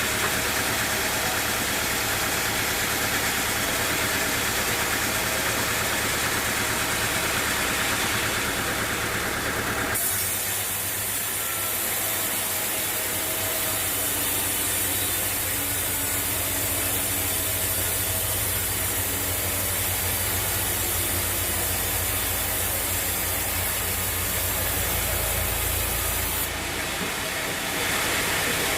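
Sawmill machinery running steadily: a constant engine hum under a hissing noise. The sound changes abruptly about ten seconds in and again near the end.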